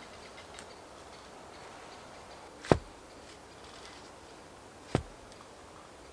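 Two sharp knocks, a little over two seconds apart, over a faint steady hiss.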